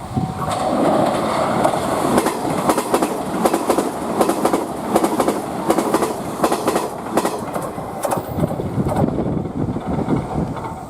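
Train passing through a station, its wheels clacking in quick pairs over the rail joints as the cars go by, then fading.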